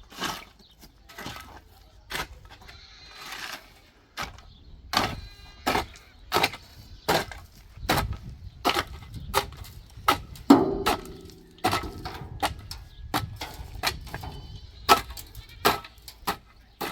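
Repeated sharp knocks of hand tools in building work, about one or two a second. A short low call comes about ten seconds in.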